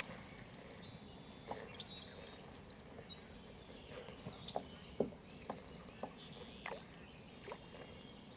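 Quiet ambience over calm water: a bird's quick trill of high chirps about two seconds in, faint steady insect tones, and a few soft ticks later on.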